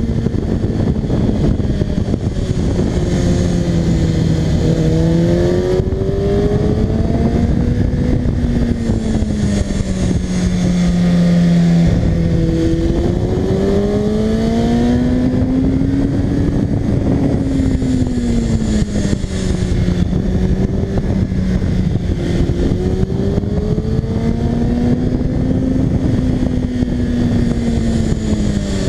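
Kawasaki ZX-6R 636's inline-four engine heard from the rider's seat, its pitch rising and falling every few seconds as the throttle is rolled on and off through the curves, with a sudden drop in pitch about twelve seconds in. A steady rush of wind noise runs under it.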